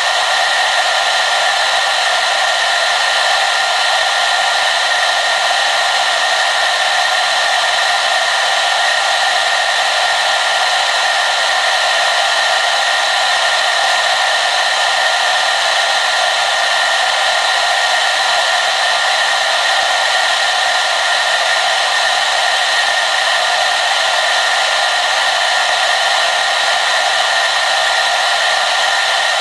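Hair dryer running continuously: a steady, unchanging rush of airflow with a constant high whine from the fan motor and little bass.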